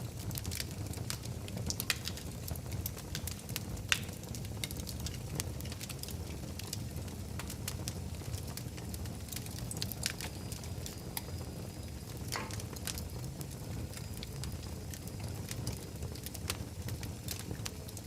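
Wood fire burning in a fireplace, crackling with irregular sharp pops over a low steady rumble of the flames, a few pops louder than the rest.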